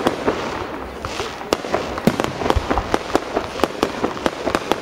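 Fireworks display going off: a rapid, irregular run of sharp bangs and pops, several a second, over continuous crackling.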